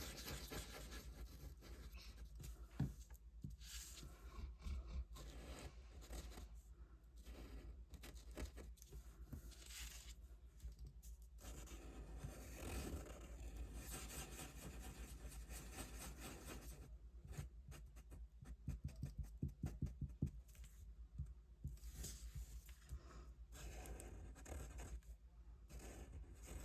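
Faint, intermittent rustling and scraping of craft paper being handled, with small scratches and clicks.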